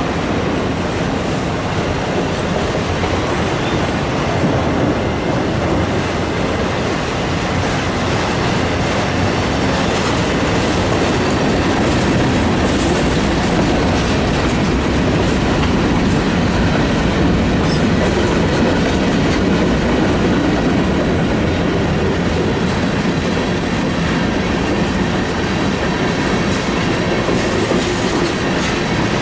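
Train rolling past: a steady rumble of wheels on the rails with clickety-clack, and a thin high wheel squeal that comes and goes twice.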